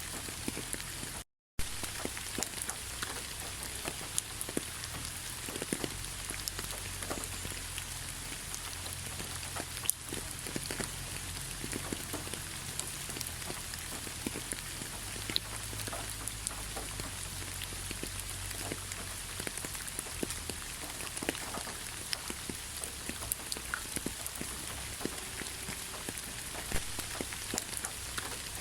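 Steady rain falling, with many separate drops ticking on a surface. The sound cuts out completely for a moment about a second in, then resumes.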